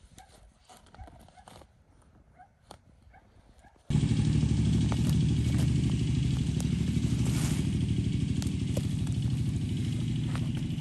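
A few faint clicks, then an engine starts sounding abruptly about four seconds in and runs steadily with a fast, even pulsing beat.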